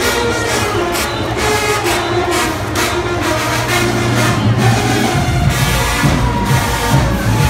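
Marching band playing on the move: sustained brass over a steady drum beat, with the low drums growing heavier about five seconds in.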